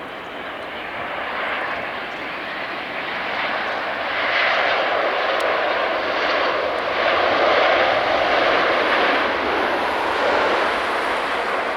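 Jet airliner's engines passing close by, a loud steady rush that swells through the first two-thirds and then eases slightly.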